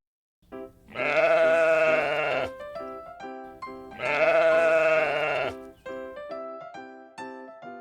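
Two long, wavering bleats from a sheep or goat, one about a second in and one about four seconds in, with light plucked children's music between them.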